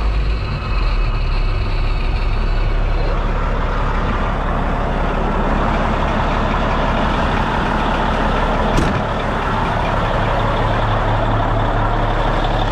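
Freightliner semi truck's diesel engine running at idle just after start-up, building air pressure. A short sharp snap sounds about nine seconds in.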